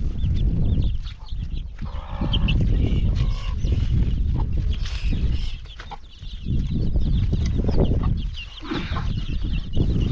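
Chickens clucking, with many short high peeps, over a loud uneven low rumble.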